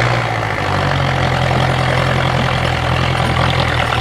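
Diesel engine of an IFA W50 off-road truck running steadily at low revs.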